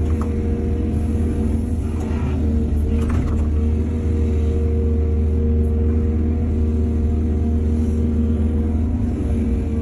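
Excavator's diesel engine running steadily under load: a deep, even drone with a steady higher hum over it. A couple of brief clanks come about two and three seconds in.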